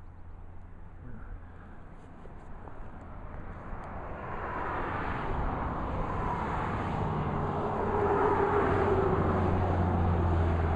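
A vehicle's engine noise with a steady low hum, growing louder over several seconds and then holding.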